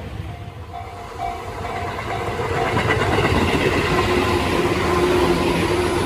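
Tobu Tojo Line electric commuter train approaching and passing a level crossing, its rumble growing louder through the first few seconds and then staying loud. A level-crossing warning bell rings in a steady beat of about two strokes a second.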